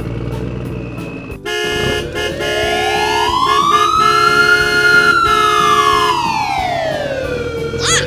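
A slow wailing siren, rising for about three seconds and falling back over the next three, with the next rise starting near the end. It comes in suddenly about a second and a half in, after a steady hum with faint ticking, and it starts over steady held tones that stop about six seconds in.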